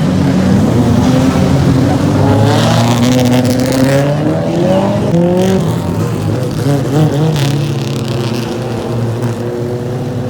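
Several race car engines running on the track, their pitch rising and falling as the cars lap.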